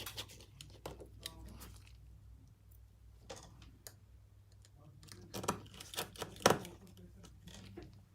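Small hand tools clicking and tapping against a smartphone being worked on, a scattered handful of sharp clicks with the loudest about six and a half seconds in, over a steady low hum.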